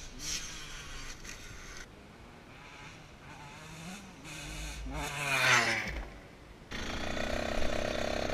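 Motorcycle engine revving: the pitch swings up and down, loudest about five and a half seconds in, then the engine runs steadily from about seven seconds and starts rising again near the end.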